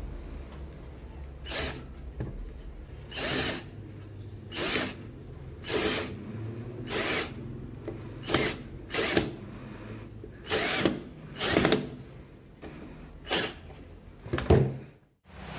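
Power drill run in short trigger bursts, about eleven brief whirs roughly a second apart, over a low steady hum.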